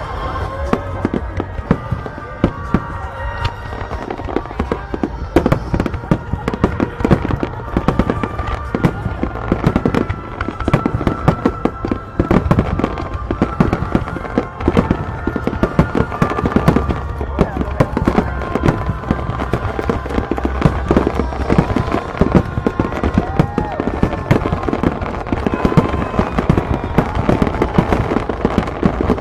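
A dense, continuous barrage of aerial fireworks shells bursting: many sharp bangs and crackles in quick succession over a low rumble, with music playing alongside.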